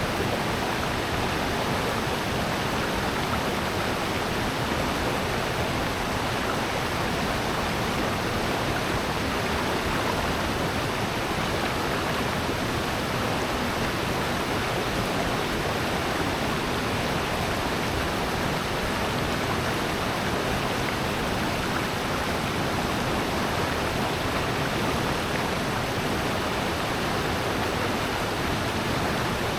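Rushing water of a valley stream and waterfall, an even, unbroken hiss.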